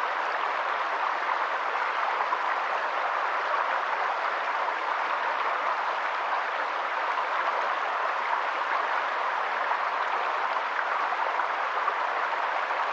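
Steady, unbroken rush of water, an even hiss with no pitch that does not change.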